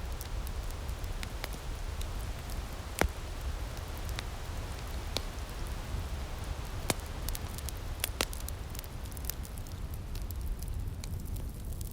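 Outdoor firepit crackling, with scattered sharp pops over a steady low rumble.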